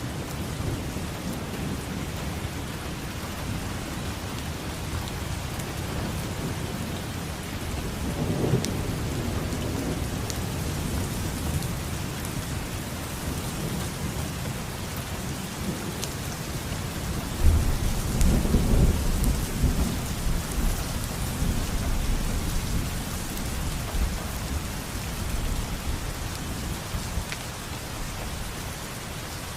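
Steady rain falling, with thunder rumbling: a low roll about eight seconds in, and a louder clap starting past the middle that rumbles on for several seconds before fading.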